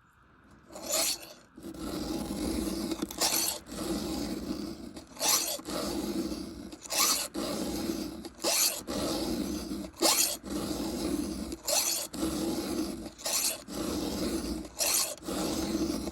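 Hand round file rasping across the cutter teeth of a chainsaw chain in steady, repeated strokes, about one every one and a half to two seconds, starting about a second in: hand-sharpening a badly dulled chain whose teeth are being filed well back.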